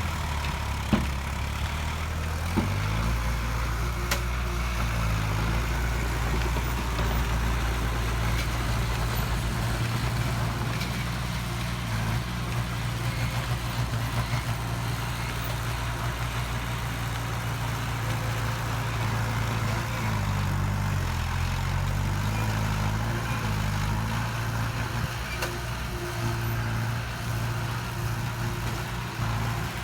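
Heavy diesel engine of construction machinery running steadily. Its pitch shifts up and down briefly a little past the middle. A few sharp knocks come within the first four seconds.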